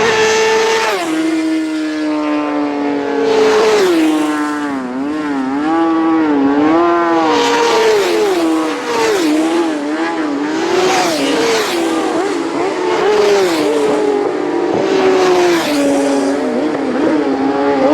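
Road-racing motorcycles running hard, the engine note repeatedly rising and dropping with throttle and gear changes, several engines overlapping.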